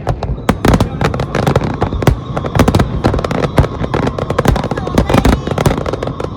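Aerial fireworks going off in a dense barrage: rapid, irregular bangs and crackles, several every second.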